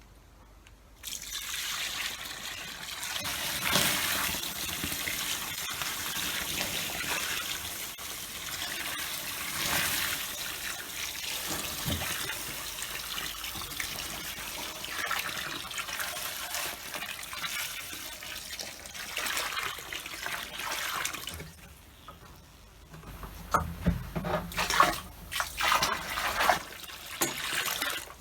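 Water pouring or running steadily for about twenty seconds, then stopping abruptly, followed by a few irregular knocks and clatters.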